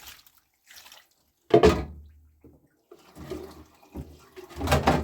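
Water splashing and pouring in separate bursts, the loudest about a second and a half in and another near the end, with quieter splashes between.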